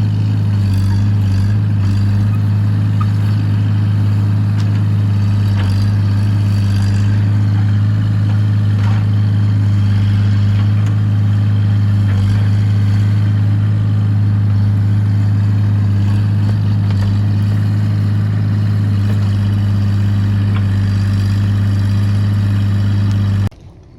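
Excavator engine running steadily at a constant speed with a strong low hum, cutting off suddenly near the end.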